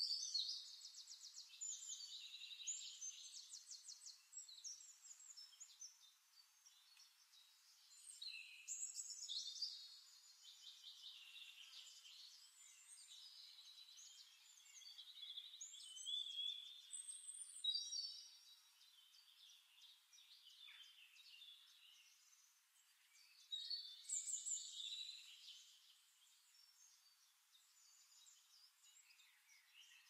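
Faint birdsong: a songbird singing in several bouts of rapid trills and chirps, with short pauses between.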